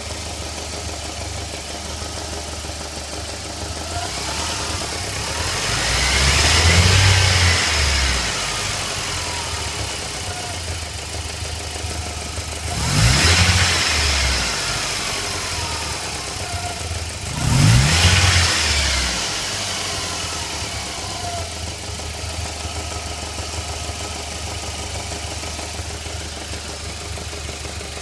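Car engine idling and revved three times, once slowly and then in two quick blips, each settling back to idle. It is run to show a knock (стук) in the engine.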